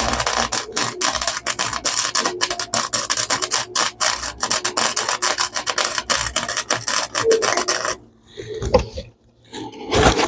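Flux-core wire-feed welder running without shielding gas, welding a sheet-metal floor pan patch: a dense, steady crackle that stops abruptly about eight seconds in. Two brief noises follow near the end.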